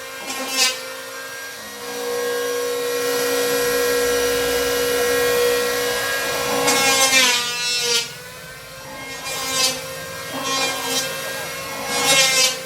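Saw cutting through plywood: a steady stretch of cutting about two seconds in, then separate rasping strokes near the middle and toward the end.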